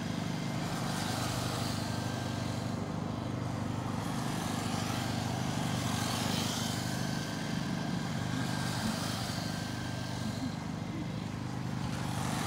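Radio-controlled race trucks running laps on a track. Their motor and tyre noise swells and fades as they pass, about three times, over a steady low hum.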